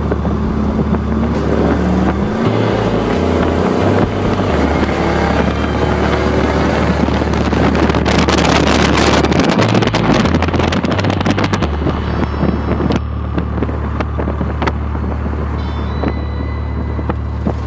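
Muscle car engine running while driving, revving up with a rising pitch a couple of seconds in and pulling hard again around the middle, with heavy wind buffeting on the microphone.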